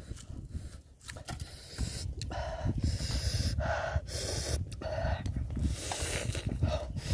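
Close-up eating sounds: a man chewing a mouthful of raw greens and crispy fried shallots, with noisy breathing, then biting into another leafy wrap near the end. Short crunchy bursts come several times during the chewing.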